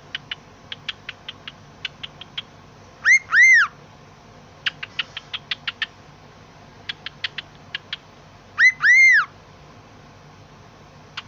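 Pet bird making a run of short, rapid clicking chirps, broken twice by a loud two-note whistle that rises and falls.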